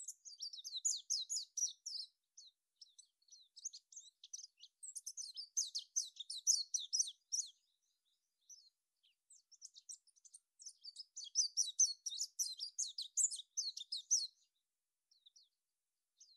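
High, rapid twittering of small birds in three bouts of a few seconds each, with short pauses between.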